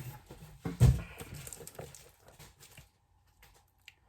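Handling noise from a mailed package being moved by hand: one dull thump about a second in, with light tapping and rustling, then it goes quiet near the end.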